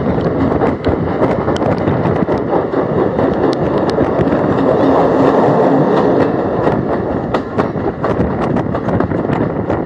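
Sri Lanka Railways passenger train running, heard at an open carriage window: a steady, loud rumble of the wheels on the rails, broken by many sharp clicks and knocks.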